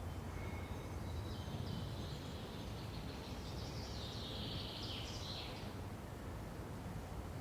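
Forest ambience: a steady low rushing noise, with a small bird singing high, quick notes from about a second in until about six seconds in.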